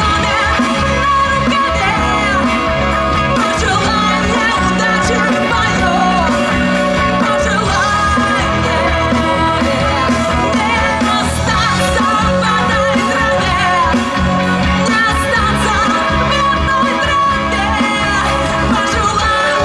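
Street rock band playing a song live, with a steady beat and full band sound.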